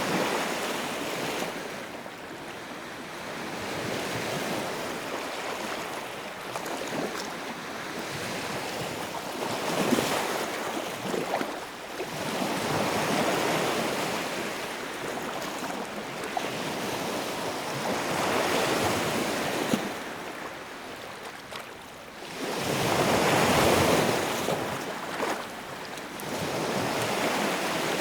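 Wood fire burning in a fireplace: a rushing noise that swells and eases every few seconds, with scattered crackles and pops.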